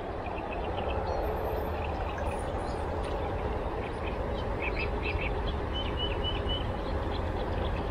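Small birds chirping in short, repeated high calls over a steady low outdoor rumble.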